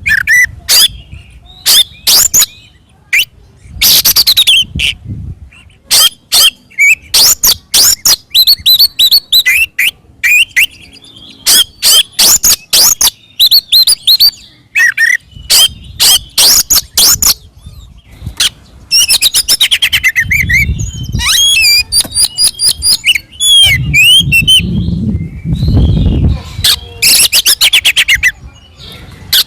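Oriental magpie-robin (kacer) singing loudly in its full fighting song: rapid strings of sharp chips, whistles and short trills in quick phrases with brief gaps.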